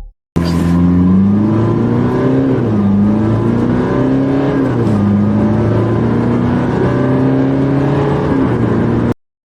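Car engine accelerating hard from a standstill, its pitch climbing and then dropping back at each upshift, three times. The sound cuts off suddenly near the end.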